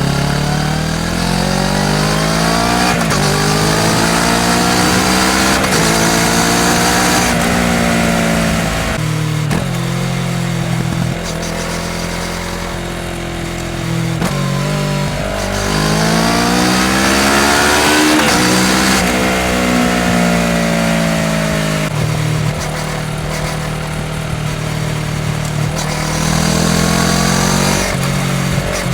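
Kawasaki Ninja 650 parallel-twin engine through a full Akrapovič exhaust system, accelerating hard: the pitch rises through the gears with a drop at each shift. It eases off twice into lower, rumbling deceleration and picks up again near the end.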